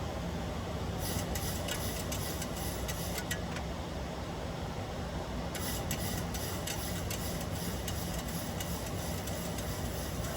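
Steady cockpit noise of a Boeing 737-800 in flight on approach, mostly airflow and engine noise. Rapid crackling clicks come in two stretches, about a second in and again from about halfway on.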